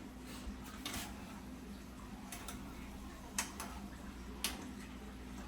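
Metal forks clinking against a cooking pot while mixing cabbage and chicken: a few sharp, scattered clicks, the loudest about three and a half and four and a half seconds in, over a low steady hum.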